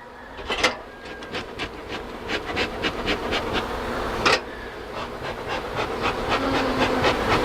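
A honeybee colony buzzing, the swarm's hum growing louder toward the end. Over it come many short clicks and scrapes, with two louder knocks about half a second and about four seconds in.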